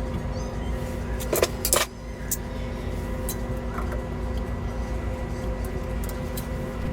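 Steady mechanical hum over a low rumble, with two sharp knocks about a second and a half in.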